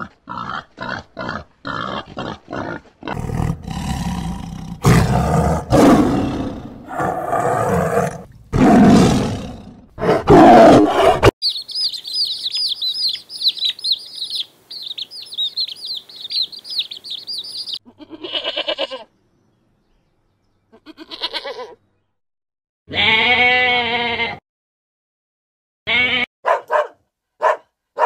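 A run of farm animal sounds one after another: rapid short grunting calls, then several loud harsh calls, then about six seconds of high chirping like birds or chicks, then a few long pitched calls, and a dog barking in short sharp barks near the end.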